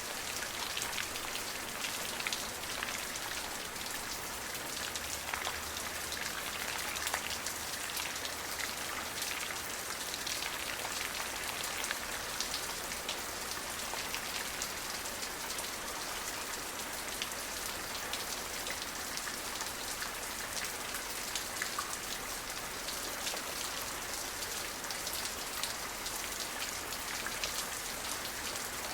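Steady rain falling, a dense patter of many individual drops striking a surface.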